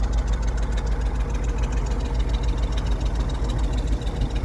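1954 GMC 250 one-ton truck's engine idling steadily, a truck that has sat unused a long time and runs better the more it is run.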